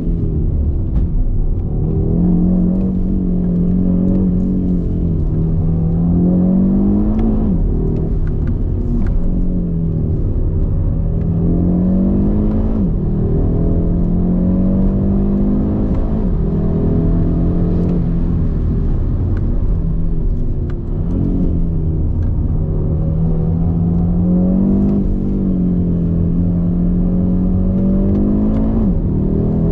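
Audi RS 3's turbocharged 2.5-litre five-cylinder engine heard from inside the cabin under hard driving. Its note keeps climbing under throttle and easing back off it, and drops abruptly at quick upshifts three times: about a quarter of the way in, near the middle, and near the end.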